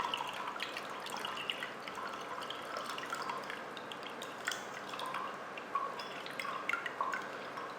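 Vinegar being poured into a cup of salt water: a light trickle with many small drips and splashes.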